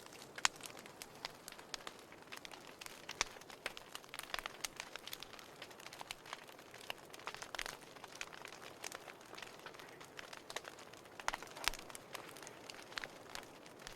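Burning firewood crackling: irregular sharp pops and snaps, several a second and some much louder than the rest, over a soft steady hiss.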